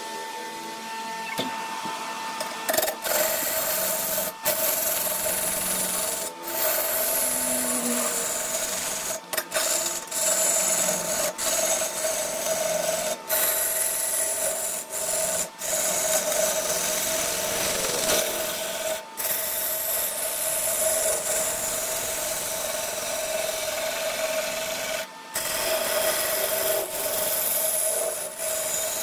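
Wood lathe turning a workpiece while a hand-held tool cuts and scrapes the spinning wood: a dense scraping hiss over a steady hum. It starts about three seconds in and is broken by several brief pauses as the tool lifts off.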